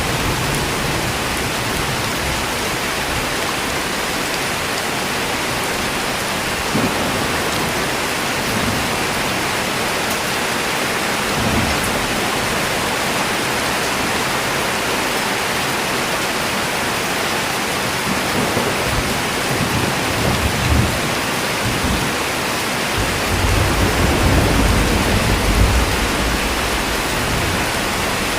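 Steady heavy rain falling, with low rolls of thunder rumbling now and then, the longest near the end.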